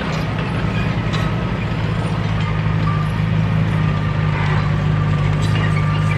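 Komatsu D31P crawler bulldozer's diesel engine running steadily under load, with a faint steady whine above the engine note and a few light clanks.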